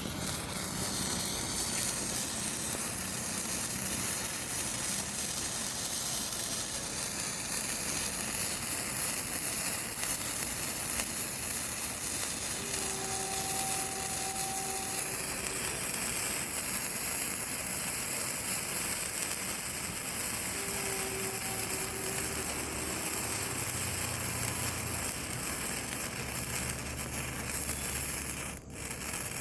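Red sparkler, 12 cm stick type, burning with a steady sizzling hiss.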